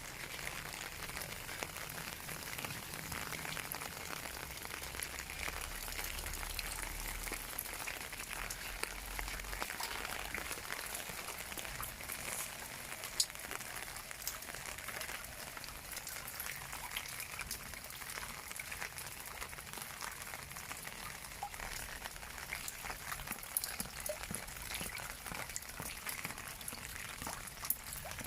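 Steady rain hiss with scattered drops pattering and ticking, a few sharper drips standing out. A faint low rumble underlies the first third.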